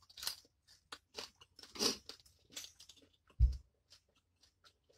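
Close-miked chewing of a mouthful of spicy seafood boil, with irregular wet crunches, the loudest a little under two seconds in. A dull low thump about three and a half seconds in.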